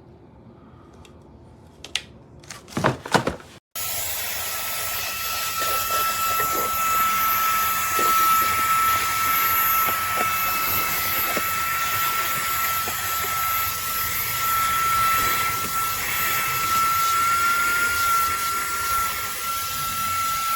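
Fanttik Slim V8 Apex cordless handheld vacuum running, a steady rush of air with a high motor whine, after a few handling knocks in the first few seconds.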